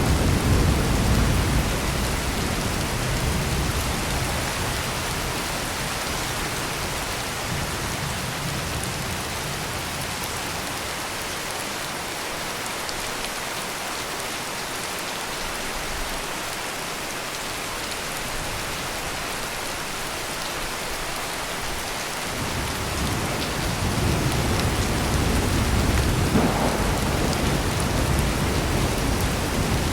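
Heavy rain pouring steadily, with low rolling thunder rumbling at the start, dying away, and building again about two-thirds of the way through.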